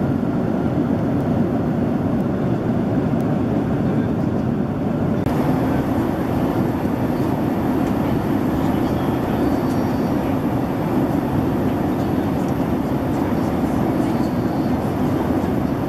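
Boeing 767-300ER airliner cabin noise: a steady, even roar of engines and air with no rise or fall.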